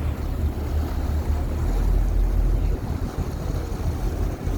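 Wind buffeting the microphone aboard a moving boat, a heavy low rumble that surges and eases.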